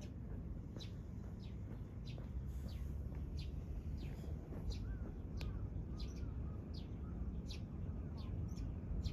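Small bird chirping repeatedly outdoors: short, high, downward-sliding chirps about one and a half a second, over a steady low rumble.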